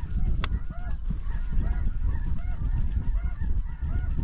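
A flock of snow and Ross's geese calling, many short high honks overlapping continuously, over a steady low wind rumble on the microphone. A single sharp click sounds about half a second in.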